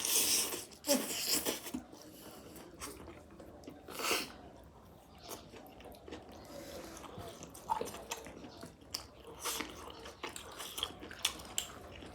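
A person chewing and biting food close to the microphone in a mukbang, with irregular louder mouth sounds near the start and again around four and nine seconds in.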